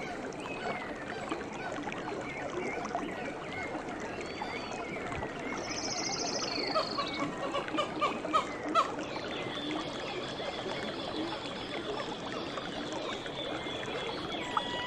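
Nature soundscape: a dense chorus of short chirps and calls from small wild animals over a soft trickle of water. A buzzy trill comes about six seconds in, and a thin, steady high whine runs from about ten seconds on.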